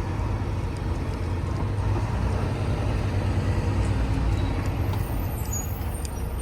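Semi truck's diesel engine running at low speed, a steady low rumble, with faint high-pitched hissing and squeaks coming in near the end.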